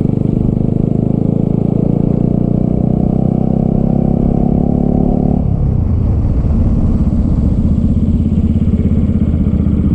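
Bajaj Pulsar RS200 single-cylinder engine under way, holding steady revs. About halfway through the throttle is rolled off and the note falls to a lower, choppier sound.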